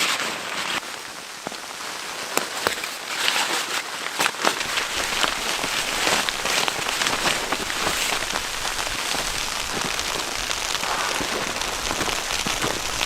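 Steady dense pattering like rain falling on a surface, with many scattered sharper ticks.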